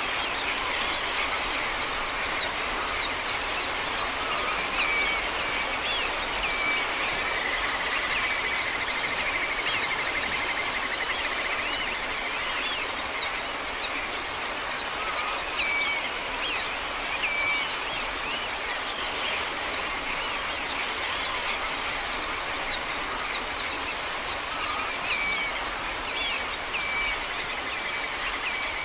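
Wild birds calling in a field recording: repeated short chirps, with one long trill lasting several seconds early on, over a steady hiss of outdoor background noise.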